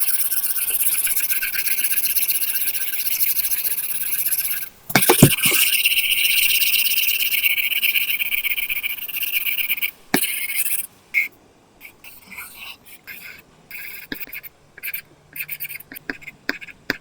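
Apple Pencil tip scratching across an iPad's paper-texture screen film in long, continuous shading strokes, with a brief break and a tap about five seconds in. After about ten seconds it gives way to short, separate strokes and taps.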